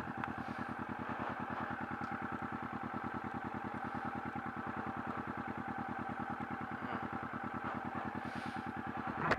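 2015 Kawasaki Vulcan S's 649 cc parallel-twin engine idling steadily through a Delkevic 8-inch mini aftermarket exhaust, with an even, regular exhaust pulse.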